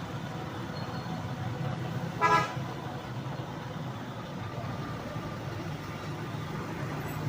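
A brief vehicle horn toot about two seconds in, over a steady low hum.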